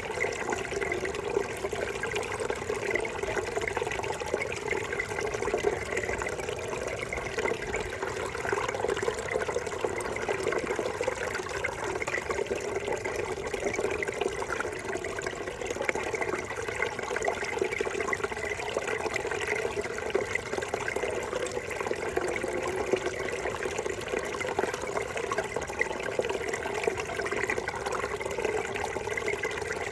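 Babbling brook: running water gurgling and rushing steadily, without a break.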